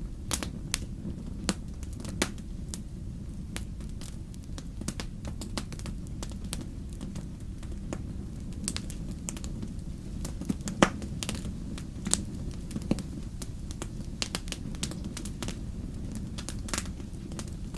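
Wood fire crackling in a fireplace: irregular sharp pops and snaps, one louder pop about 11 seconds in, over a steady low rumble of the flames.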